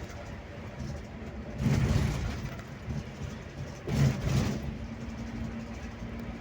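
Scania K360IB bus on the road, its engine and road noise running steadily. It swells louder twice, about two and four seconds in, and a steady hum holds after the second swell.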